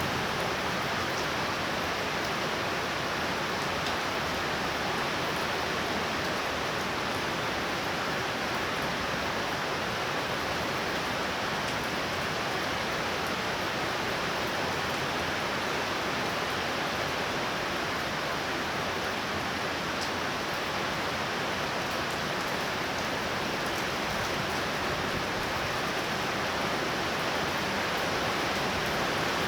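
Torrential rain falling in a steady downpour, an even hiss that does not let up.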